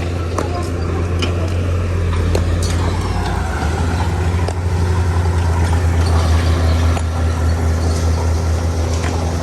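Heavy diesel engine of an earthmoving machine running under load with a steady low drone, building up a few seconds in and easing off near the end. Scattered sharp clicks of stone knocking on stone sit over it.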